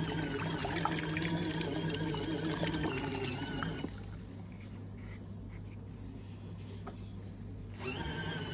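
Collapsible portable washing machine running: a steady motor hum with water sloshing and trickling in the tub.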